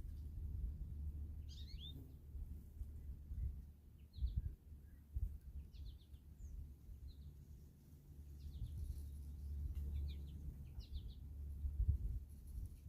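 Small birds giving short, high chirps, scattered every second or so, over a steady low rumble.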